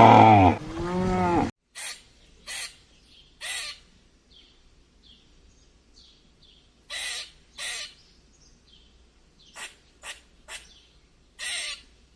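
A loud drawn-out animal call with a wavering pitch cuts off abruptly about a second and a half in. It is followed by a bird giving about ten short, harsh calls, singly and in pairs, with faint high chirps between them.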